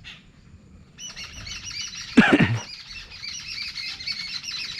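A flock of birds chattering: many rapid, high repeated chirps start about a second in and run on. A single louder call with a falling pitch cuts through about two seconds in.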